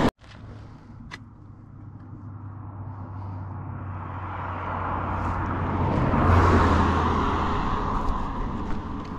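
A vehicle passing on the road, its tyre and engine noise growing louder to a peak about six seconds in, then fading.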